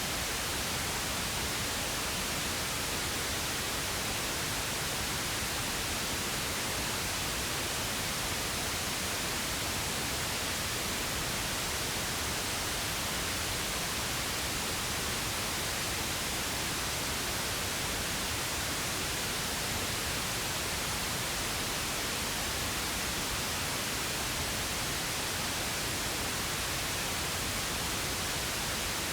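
Synthesised pink noise: a steady, even hiss that does not change.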